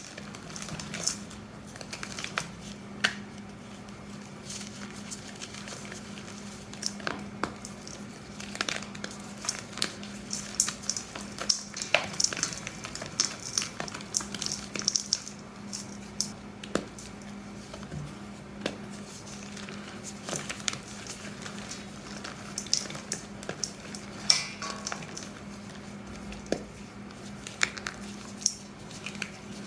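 Dyed, reformed gym chalk blocks being crushed, giving a run of irregular crunchy cracks and crumbling crackles, with one sharper crack near the middle.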